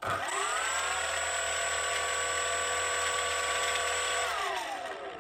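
RC Spitfire's electric motor and propeller on a throttle check: the whine climbs quickly to speed, holds steady for about four seconds, then winds down as the throttle is cut. The motor makes noises that are called weird, but it runs.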